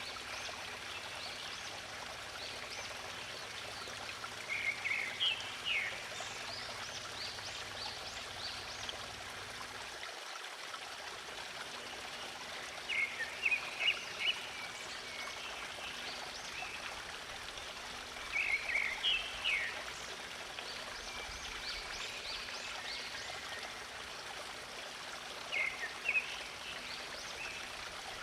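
Running stream water, a steady rushing, with short phrases of bird chirps about four times, each cluster lasting a second or two.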